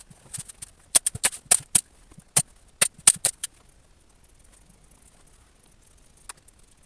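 A quick run of about a dozen sharp knocks and clicks from wood and tools being worked, bunched together over about two and a half seconds, then one more knock near the end.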